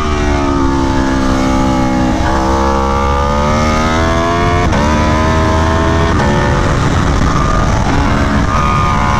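Aprilia Tuono V4 1100 Factory's V4 engine through an SC Project CR-T exhaust, heard from on the bike at speed. The revs fall for about two seconds, then climb hard under acceleration, with quick upshifts about halfway through and again a second or so later, each dropping the pitch before it rises again.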